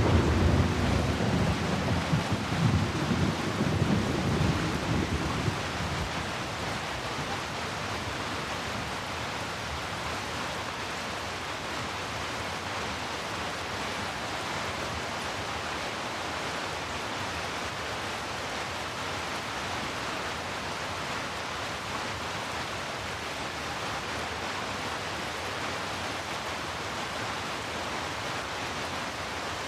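Steady rain falling, an even hiss, with a rolling rumble of thunder that dies away about five or six seconds in.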